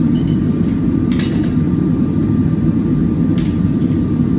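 Blacksmith's forge running with a steady, low rushing noise, with a few light metal clinks about a second in and again near three and a half seconds.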